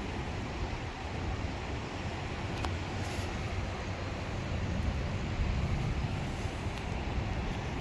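Wind buffeting the microphone in a low, uneven rumble over a steady outdoor hiss.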